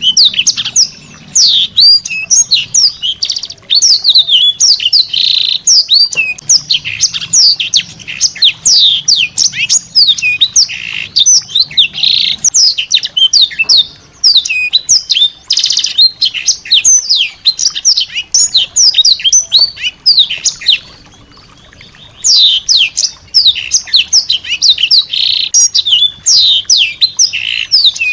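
A small songbird singing a fast, continuous run of sharp chirps and downward-sweeping whistles, pausing once for about a second and a half about three-quarters of the way through.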